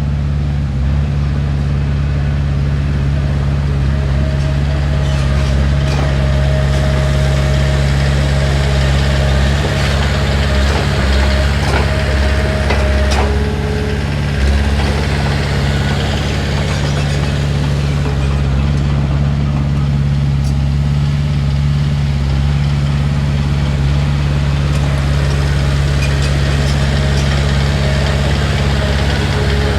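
Heavy diesel engine of earthmoving machinery running steadily at a low, even pitch. A thin whine comes in about four seconds in and stops before the halfway point, with a few light clicks over the engine.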